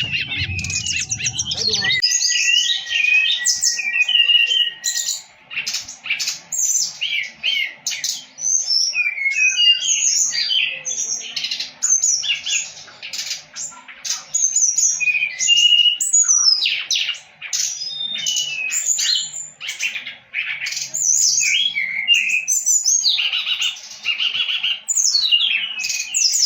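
Brown-chested jungle flycatcher (SRDC) singing hard: a busy, continuous run of varied high chirps, trills and short whistles, with one long held whistle a couple of seconds in.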